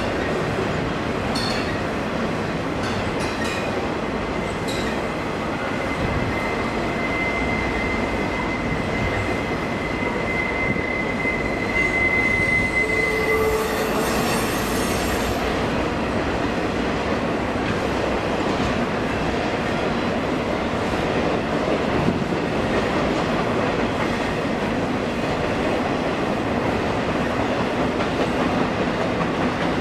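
Amtrak passenger train rolling past on the rails with a steady rumble, with a thin, high wheel squeal from about six seconds in until about halfway through.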